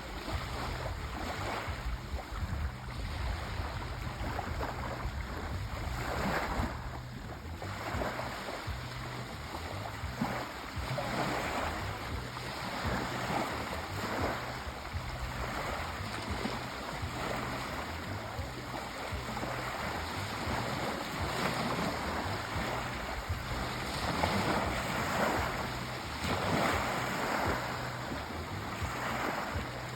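Sea waves washing in and out on a shore, the surf swelling and easing every few seconds over a steady low rumble.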